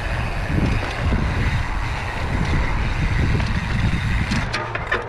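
Mountain bike riding down a dirt trail: a steady rush of wind on the microphone and rolling tyre noise, with a few sharp rattling clicks near the end.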